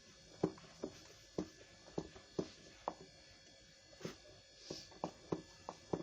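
A thick cream mixture being stirred by hand, the stirrer knocking against the side of the container in short, uneven taps a few times a second.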